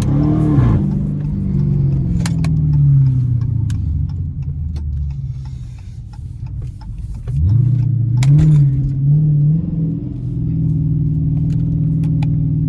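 Dodge Challenger R/T's HEMI V8 through a straight-pipe exhaust with the resonator and mid-muffler deleted, heard while driving. There is a short rev right at the start, then the note falls away and quietens as the car coasts. About seven seconds in the engine revs up sharply, wavers for a couple of seconds, then settles into a steady cruising drone.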